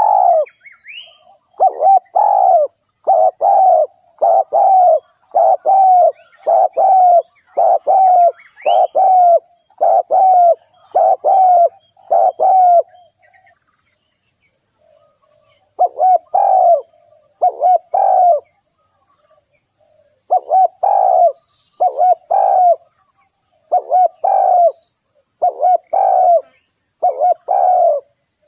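Spotted dove cooing: a long run of evenly repeated coo phrases, breaking off for a few seconds about halfway before starting again. A faint steady high whine lies under the calls.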